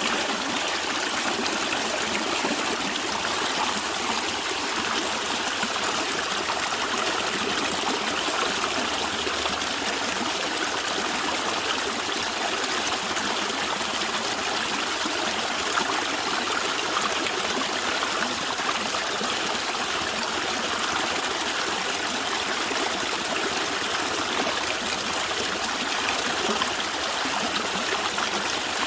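Stream water running and gurgling over rocks, a steady rushing with no pauses.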